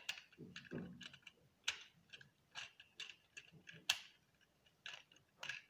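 Plastic Sluban building-brick parts clicking and tapping as the roof of the brick-built plane is fitted back on: a string of light, irregular clicks.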